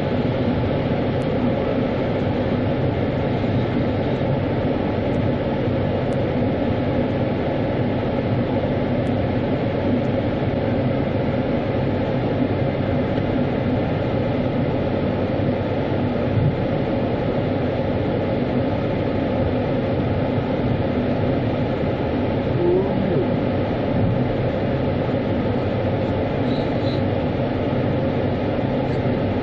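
Steady rumble of a vehicle or machine with a constant low hum, even and unchanging throughout.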